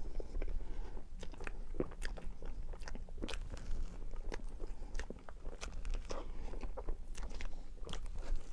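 Close-miked chewing of matcha red bean mille crepe cake: irregular wet mouth clicks and smacks, several each second.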